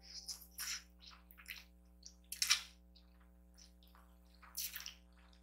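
Close-miked eating sounds: wet slurps and mouth smacks of kimchi noodles being eaten, in irregular short bursts, the loudest about two and a half seconds in.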